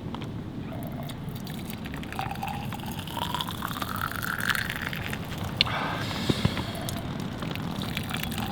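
Warmed cheongju (Korean rice wine) poured into a cup, the pitch of the pour rising as the cup fills, followed by a couple of sharp clinks.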